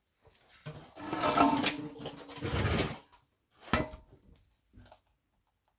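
Metal parts scraping and clinking for about two seconds as the VW Beetle's clutch release thrust bearing is worked off, with a few ringing metallic notes. A sharp click follows, and then some light knocks.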